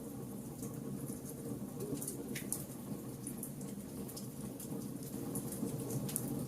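Wood fire burning: a steady low rumble of flames under irregular sharp crackles and pops from the burning wood.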